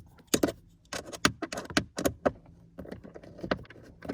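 Irregular sharp metallic clicks and clinks of a hand tool tightening the mounting screws of an HVAC blend door actuator under a car's dashboard.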